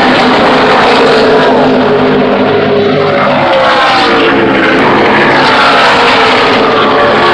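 A field of NASCAR stock cars' V8 engines racing past at high revs, with many engine notes overlapping and sliding up and down in pitch as cars come and go. The recording is loud throughout and overloaded.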